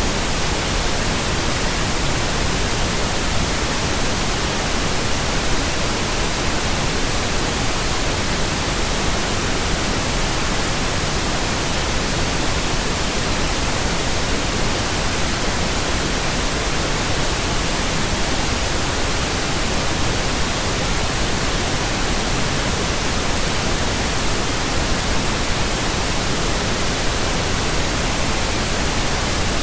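Steady, unbroken pink noise: an even hiss spread across all pitches, with no change in level or texture.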